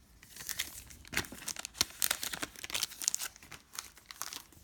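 Crinkly wrapper of a trading card pack crackling and tearing as it is handled and opened, a dense run of irregular crackles.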